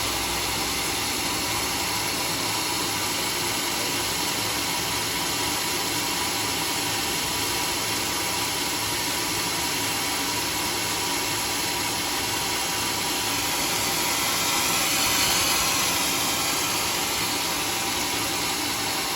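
Sawmill machinery running steadily, a continuous mechanical noise, with a short swell of high hiss about three-quarters of the way through.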